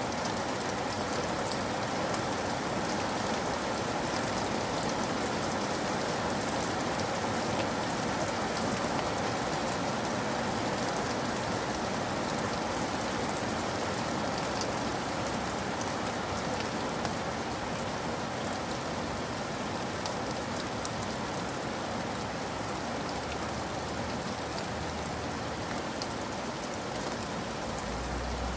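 Steady heavy rain falling on surfaces, a continuous hiss with scattered individual drop ticks.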